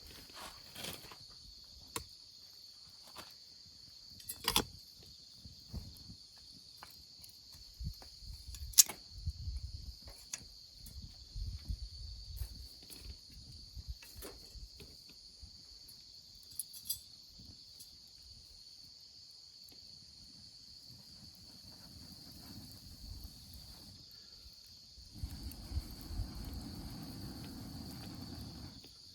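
Campfire crackling in scattered, irregular pops, one of them loud about nine seconds in, over a steady high chirring of insects. A low rumble sets in near the end.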